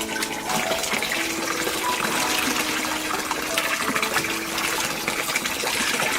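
Water running and splashing steadily, like a tap filling a container, with soft background music notes held underneath.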